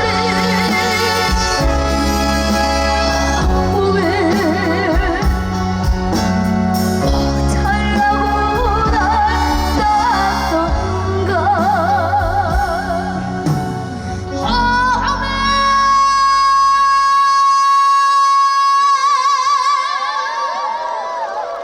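A man sings a Korean song with vibrato over an amplified backing band with a strong bass. About fifteen seconds in, the band drops away and one long high note with vibrato is held almost to the end.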